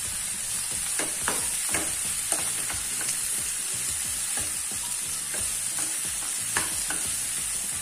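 Sliced onions and coconut pieces sizzling in hot oil in a non-stick wok. A metal spatula scrapes and taps against the pan now and then as they are stirred.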